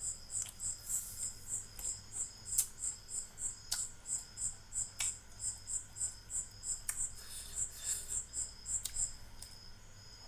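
Insects chirping steadily in an even rhythm of about three high chirps a second, over a continuous high trill, with a few sharp clicks now and then.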